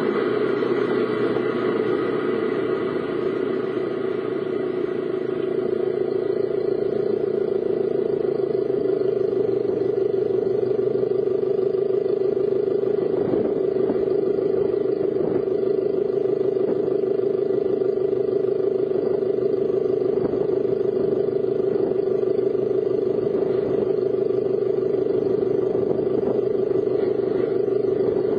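A car driving, steady engine and road noise heard from inside the vehicle.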